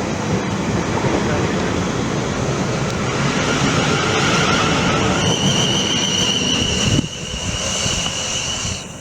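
A train passing close by with a loud, steady rumble. About five seconds in, a high, steady squeal joins it. The rumble drops away abruptly about two seconds later, and the squeal continues until just before the end.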